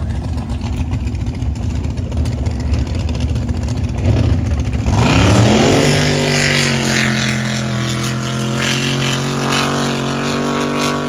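High-horsepower drag boat engines rumbling unevenly at low revs, then about five seconds in an engine revs up sharply and holds a steady high drone.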